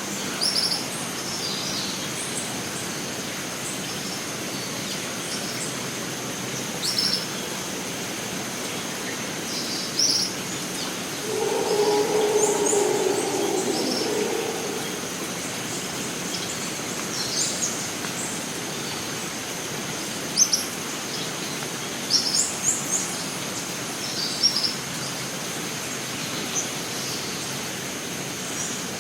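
Costa Rican rainforest ambience: a steady high insect drone over an even background hiss, with short bird chirps scattered throughout. A lower, drawn-out call lasts about three seconds near the middle.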